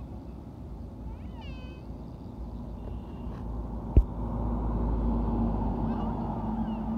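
Truck engine running with a steady low rumble that grows louder and droning about halfway through, with a sharp click about four seconds in. A short, high, wavering cry is heard about a second and a half in.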